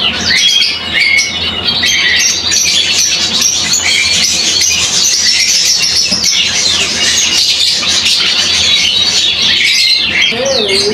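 Many caged birds chirping and squawking at once: a dense, unbroken chorus of short, high calls.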